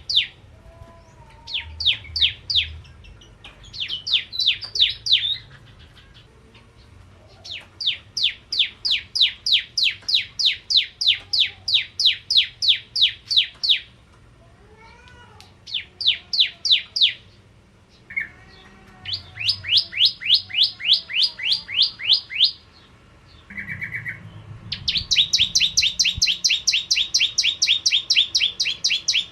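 Bar-winged prinia (prenjak jawa) singing: runs of sharp, rapidly repeated high chirps, each run lasting from about a second to several seconds, broken by short pauses. Fainter, lower chirps of another bird sound in the background.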